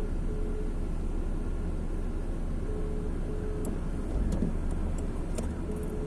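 Steady rumble of road traffic in the rain, with scattered sharp ticks. A pair of short beeps repeats about every three seconds.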